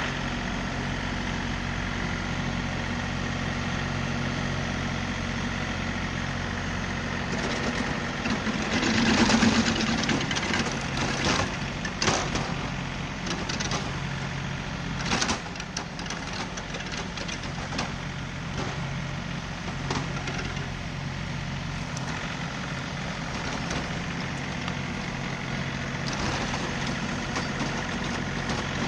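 John Deere 3038E compact tractor's diesel engine running steadily. It gets louder for a couple of seconds about a third of the way in, with a run of knocks and clatters through the middle.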